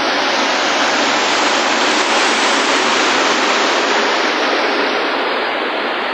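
A loud, steady rush of water, swelling a little in the middle and easing slightly toward the end.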